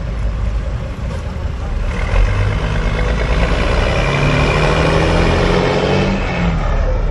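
Car engine accelerating over a low running rumble. About two seconds in, its pitch climbs and it grows louder for around four seconds, then drops back near the end.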